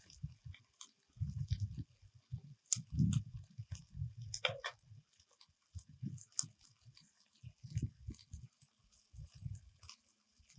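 Close-up chewing and biting, in irregular soft low crunches with scattered small clicks. A brief falling chirp comes about four and a half seconds in.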